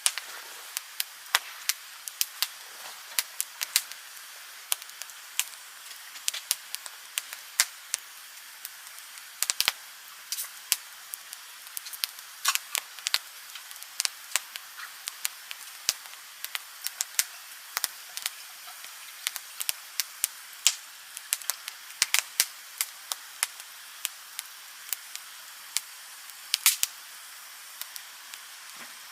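Wood campfire burning: a steady hiss of flames with irregular sharp crackles and pops from the burning wood, several a second, some of them loud.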